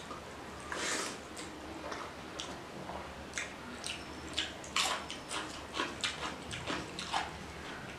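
Close-up wet chewing and lip-smacking of a mouthful of rice and curry eaten by hand: a string of short smacks and clicks, sparse at first and coming thick and fast in the second half.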